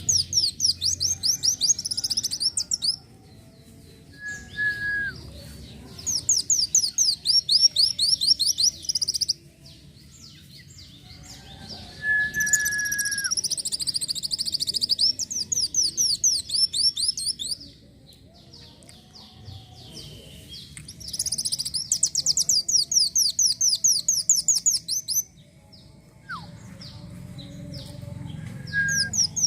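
Sunbird (kolibri wulung) singing: five long, fast, high-pitched trilled phrases, each a few seconds long, with short pauses between them. Brief lower whistled notes come in the gaps, about four seconds in, about twelve seconds in and near the end.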